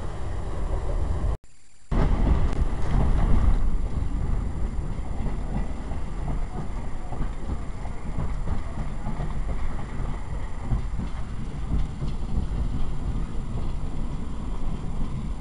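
Steady rumble and rattle of a caboose train rolling along the track, heard from on board. The sound drops out suddenly for about half a second near the start, then comes back a little louder.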